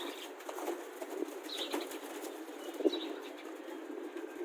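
Pigeons' wings flapping faintly, with a few short, soft sounds scattered through.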